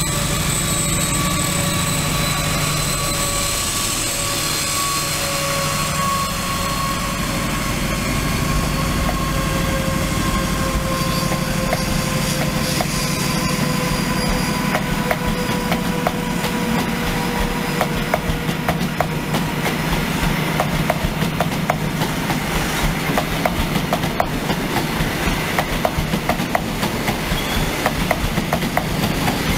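Train running on rails, with a steady whine that slowly falls in pitch. From about halfway through, a rapid clatter of wheels over rail joints builds up.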